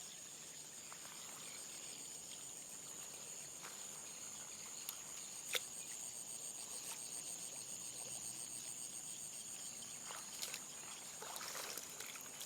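Steady high-pitched trilling of crickets or other night insects, with a few faint clicks over it.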